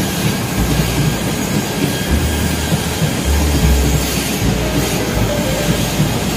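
KTM Komuter electric multiple-unit train pulling in past the platform: steady rumble of wheels on the rails, with a few brief wheel squeals.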